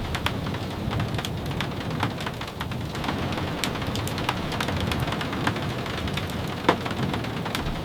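Steady rain with a low, even rumble underneath and many short, sharp ticks scattered through it, one louder near the end.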